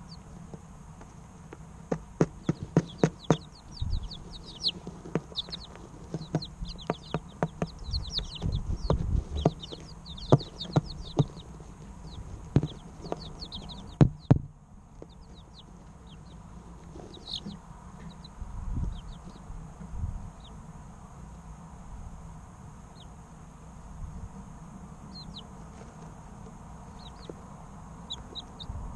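Three-week-old chicken chicks peeping: many short, falling chirps, busy through the first half and only scattered after about halfway. Sharp taps and knocks come among the chirps in the first half and are the loudest sounds.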